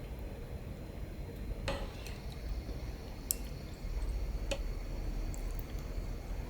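Quiet kitchen handling sounds: three small, sharp clicks or taps a second or so apart over a low steady background, which grows louder about two-thirds of the way through.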